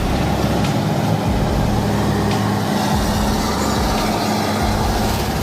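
Heavy diesel engine running steadily, a continuous low drone.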